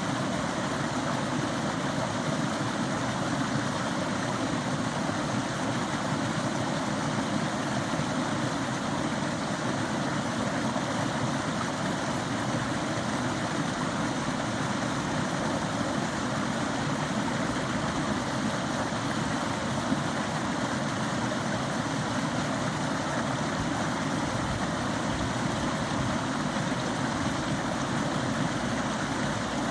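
Forest stream running: a steady, unbroken rush of flowing water.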